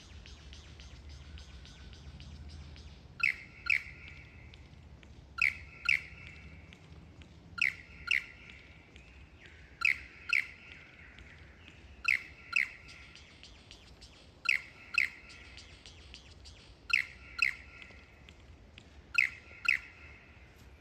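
Lyrebird singing: a rapid run of clicking notes, then a repeated phrase of two sharp downslurred notes, about half a second apart, given eight times roughly every two seconds.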